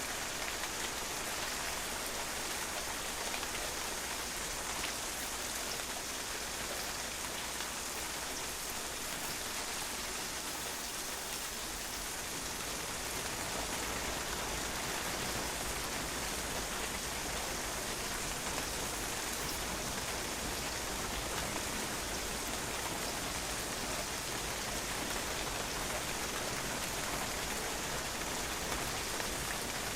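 Steady rain falling on a patio, a dense even patter of drops hitting the hard surface.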